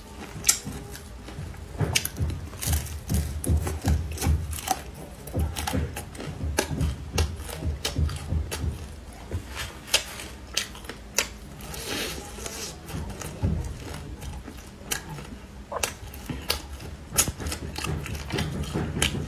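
Close-up chewing of a crisp fried shredded-potato and carrot pancake: a long run of irregular crunches and crackles over soft, low mouth thuds.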